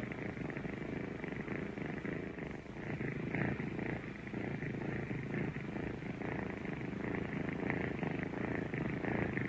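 Kittens purring: a continuous, close-up rumbling purr with a fast, even pulse.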